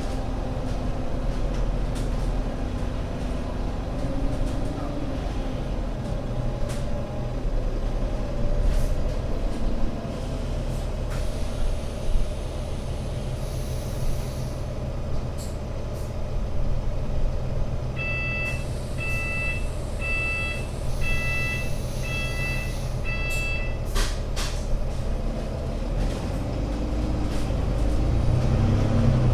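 The diesel engine of an Alexander Dennis Enviro500 MMC double-decker bus idling with a steady low rumble, with bursts of air hiss from the bus's air system. A pitched warning beeper sounds six times, about a second apart, about two-thirds of the way in. Near the end the engine speeds up and gets louder as the bus pulls away.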